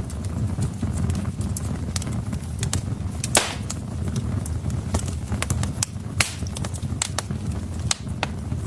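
Wood fire burning in a fireplace: logs crackling with irregular sharp pops over a low steady rumble, two of the pops much louder, about a third and two-thirds of the way through.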